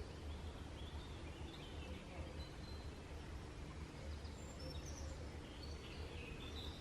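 Woodland birds chirping faintly in short phrases, twice in clusters, over a steady low rumble.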